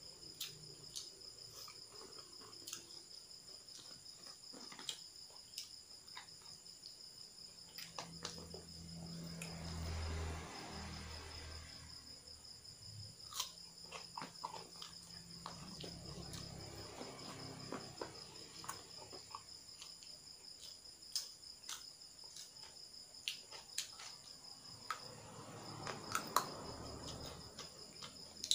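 Crickets trilling steadily in a high, unbroken tone, with scattered short clicks and crunches of someone chewing food close to the microphone.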